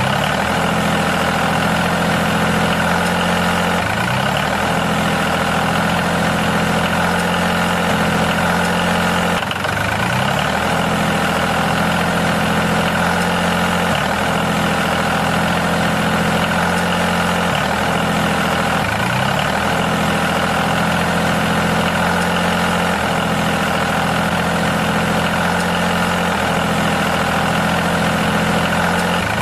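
A motor or engine running steadily, with a brief rise in pitch every few seconds.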